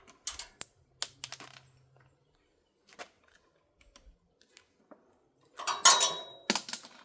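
Hands working on a UPVC window frame: a series of light, sharp plastic clicks and taps, then a short loud rasp of protective tape being peeled off about six seconds in, followed by a sharp knock.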